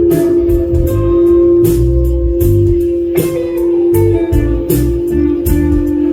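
Live band playing the instrumental intro of a song: guitar over bass and drums, with a steady held note and regular drum hits.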